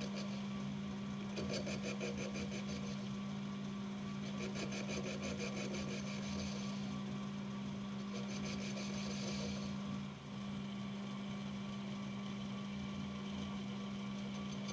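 Metal lathe running with a steady hum while the tool cuts a chamfer on an exhaust casting; the cutting noise comes and goes in stretches of fast, even ticking as the tool is fed in and backed off.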